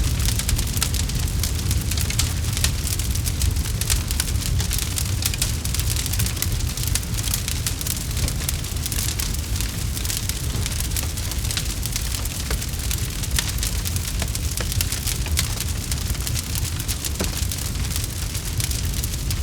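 Wood campfire crackling steadily: a dense run of small sharp pops and snaps over a constant low rumble of the flames.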